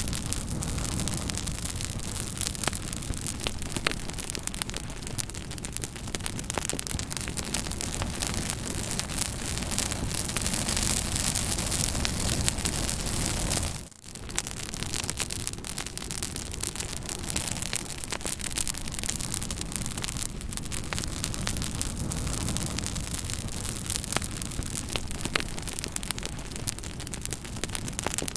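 Fire crackling: a steady hiss with many small, irregular pops and snaps. The sound drops out for a moment about halfway through.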